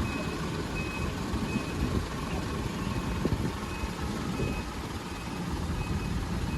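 Truck engine running with a reversing alarm beeping steadily, about one and a half beeps a second.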